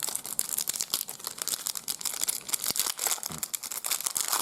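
Trading card pack wrapper crinkling and tearing as it is opened by hand: a dense, unbroken run of small crackles.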